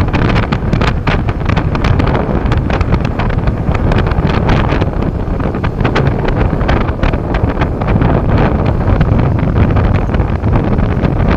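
Wind blowing hard across the microphone: a loud, steady rumble with many short crackles all through it.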